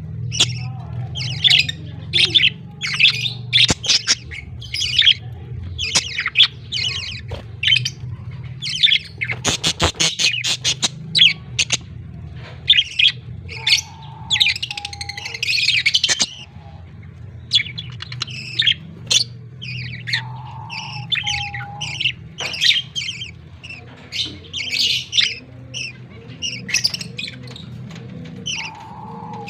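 Budgerigars giving a rapid, continuous series of short, harsh chirps and squawks over a steady low hum.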